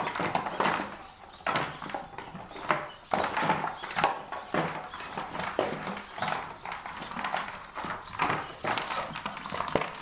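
Feet of a legged search-and-rescue contest robot tapping and knocking on the arena floor as it walks, in an irregular clip-clop of a few taps a second.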